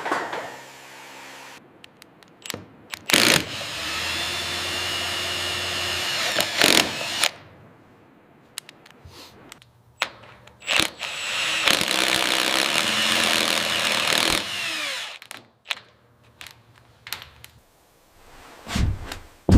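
A power tool, likely a drill, runs steadily twice for about four seconds each. Scattered knocks and clicks of handling come between the runs.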